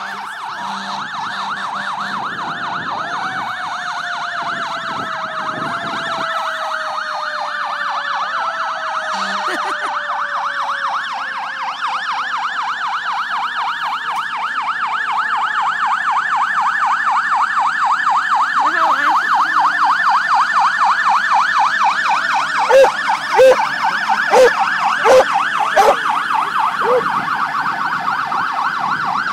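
Emergency vehicle sirens from a fire truck and its police escort: one siren yelping in a fast warble, while a second tone falls slowly and steadily. Near the end, six short horn blasts stand out as the loudest sounds.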